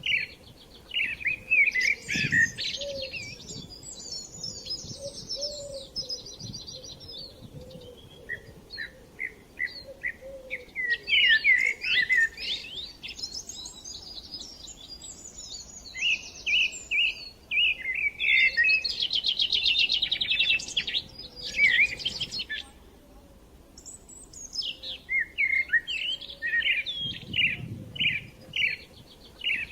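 Small birds chirping and twittering in rapid, overlapping bouts of short calls and trills, with a short lull about three-quarters of the way through.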